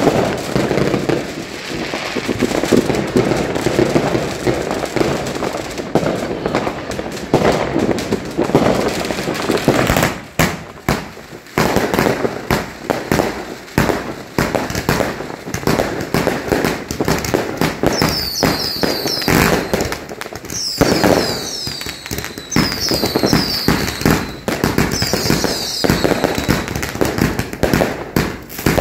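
Fireworks and firecrackers going off in a dense, continuous barrage of bangs and crackles. From about two-thirds of the way in, several falling whistles from whistling fireworks sound in clusters over the bangs.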